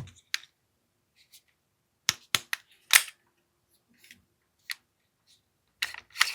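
AAP-01 airsoft pistol's action being worked by hand while its hammer mechanism is tested: a string of short, sharp clicks and snaps with pauses between, the loudest about three seconds in and again near the end.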